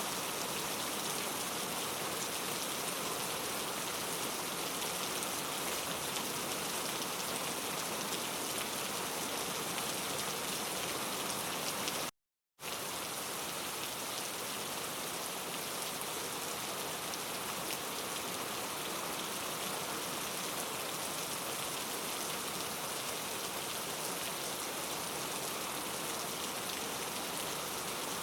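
Steady rain falling, an even hiss of many drops. The sound cuts out completely for a split second about twelve seconds in, then resumes unchanged.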